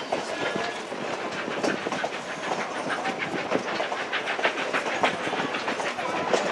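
Narrow-gauge railroad cars rolling along the track, heard from aboard the train: the wheels give an irregular clicking and rattling over the rail joints.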